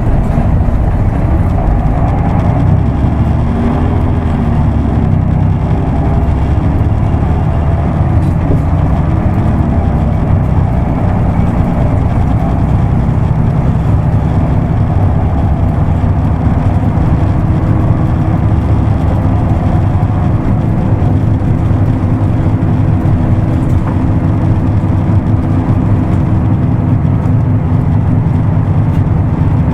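Isuzu Erga Mio bus's diesel engine running under way, with road noise, heard from inside the cabin. The engine note shifts about a third of the way in and again about halfway through.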